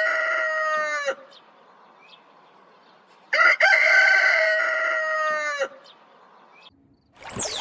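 Rooster crowing twice: the end of one crow, then a full crow of about two and a half seconds starting a little after three seconds in, its pitch falling away at the close.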